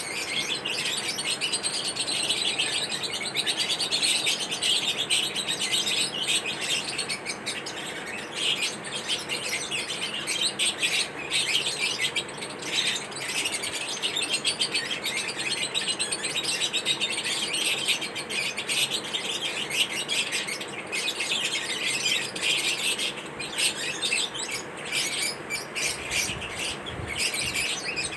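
Lovebirds chirping, a dense, continuous stream of rapid, high-pitched overlapping chirps.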